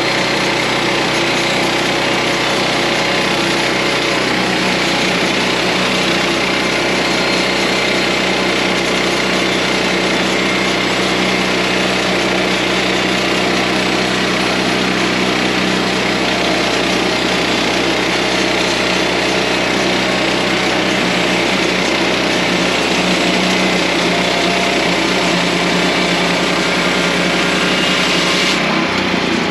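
Portable band sawmill running steadily: its small engine is driving the blade through the log, with a constant high hiss over the engine note. Near the end the hiss drops away sharply while the engine keeps running.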